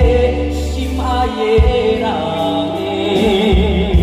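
Taiwanese Hokkien pop ballad sung over instrumental backing, with a steady bass line and a sung note held with vibrato starting about three seconds in.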